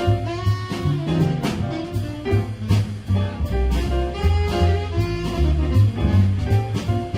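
A small jazz combo of piano, saxophones, double bass and drums playing a swinging bebop blues, with the bass walking steady low notes under the ride cymbal and a saxophone line on top.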